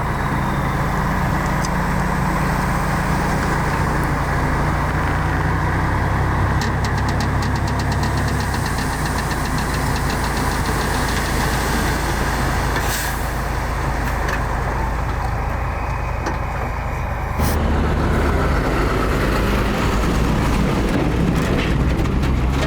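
Heavy diesel earthmoving machinery engines running steadily, with a stretch of rapid, even clicking near the middle. The sound changes abruptly and gets slightly louder about two-thirds of the way through.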